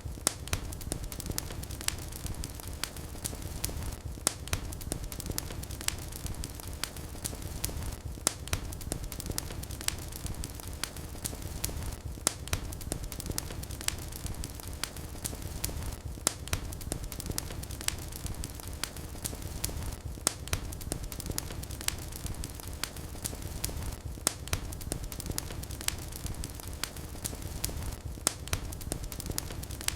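Wood fire burning in a fireplace, crackling steadily with frequent sharp pops over a low rumble of flames.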